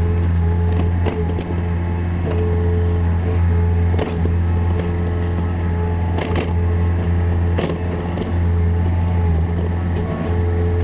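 Takeuchi TB153FR mini excavator's diesel engine running steadily, with a few sharp knocks over it.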